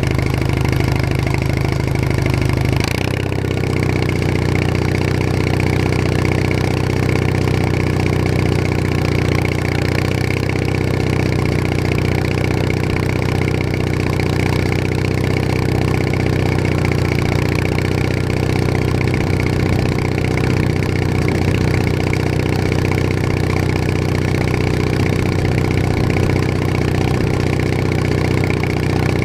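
Bolens HT20 garden tractor engine running steadily at an even speed, with a brief click and a small shift in the engine note about three seconds in.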